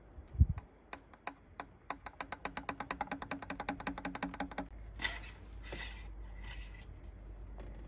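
A thump, a few spaced clicks, then a fast even run of mechanical clicks, about eight a second, lasting a few seconds. After that come three short hissing bursts.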